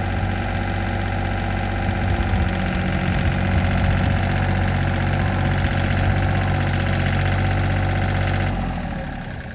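John Deere 4310 compact tractor's three-cylinder diesel engine idling steadily, dying away near the end.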